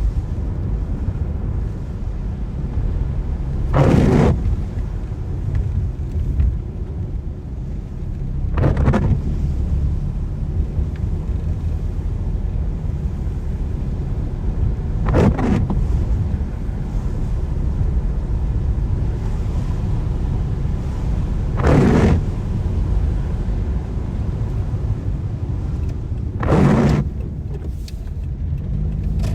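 Car driving on a wet road in the rain: a steady low rumble of road and engine noise, with a short swish every five or six seconds.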